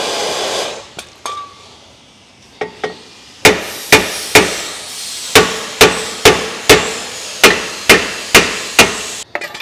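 Hammer blows on a stuck brake rotor to knock it loose: a few light taps, then eleven hard metallic strikes in three quick runs of three, four and four, each ringing briefly.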